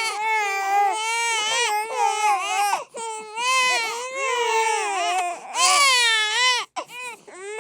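Babies crying hard: long, loud, high wails that overlap, with brief breaths between them.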